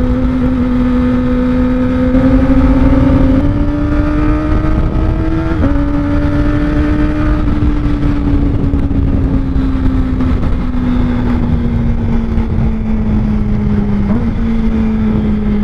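Kawasaki ZX-25R inline-four with an R9 Zeta aftermarket exhaust running at a steady throttle while riding, a high engine note that climbs slowly and then sinks gently. The note has a brief hitch about five and a half seconds in and again near the end, over a rush of wind and road noise.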